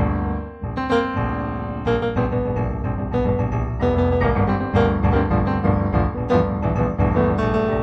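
Solo piano music, a steady run of struck notes, briefly thinning out about half a second in.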